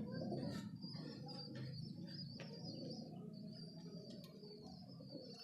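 Domestic pigeons cooing in a loft: a low, continuous cooing, with a thin, wavering high chirp running over it and a few light clicks.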